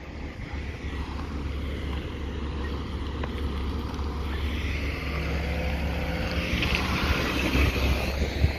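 Heavy diesel truck engine running with a steady low rumble that grows louder toward the end, with wind noise on the microphone.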